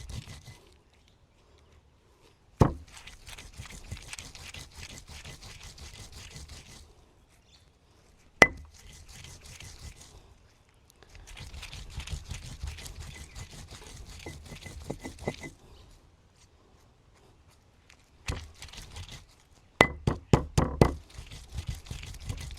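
Green masala of coriander, chillies and whole spices being ground by hand on a grinding stone: several stretches of rough stone-on-stone scraping, broken by sharp knocks of stone on stone, with a quick run of knocks near the end.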